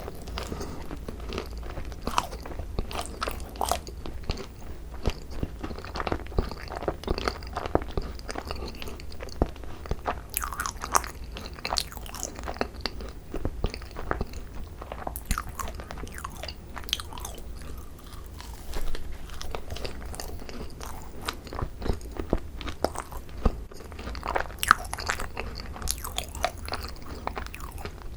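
Close-miked eating of thick cream-filled macarons (ttungkaron): irregular biting, crunching and chewing, with many short crisp clicks and smacks throughout.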